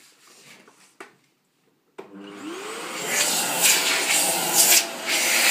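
Two faint clicks, then about two seconds in a vacuum cleaner switches on: its motor whines up in pitch and settles into a loud, steady rush of suction. It is now sucking properly with the dust container's lid refitted the right way.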